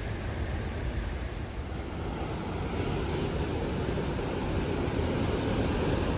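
Ocean surf breaking and washing on a big swell, a steady rumble of waves with wind on the microphone.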